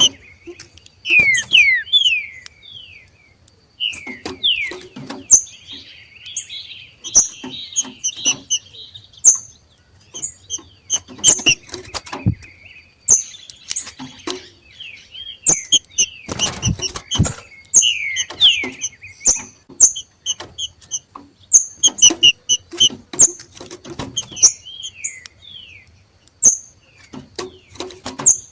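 Two green-winged saltators (trinca-ferro) giving their 'macheado' calls: bursts of sharp high chirps and short falling whistled notes, repeated every few seconds with scattered clicks between.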